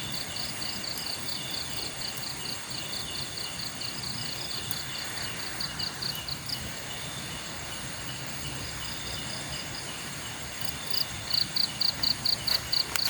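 Night insects: one cricket-like insect chirping in quick, regular pulses, about four a second, that stop around the middle and come back louder near the end, over a steady high trill of other insects.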